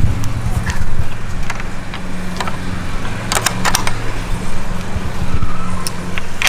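Steady low hum of an engine running, with scattered clicks and taps.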